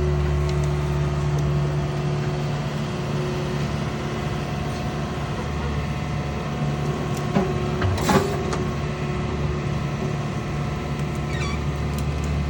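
Heavy-equipment diesel engine running steadily, with a couple of sharp knocks about seven and eight seconds in, the second the louder.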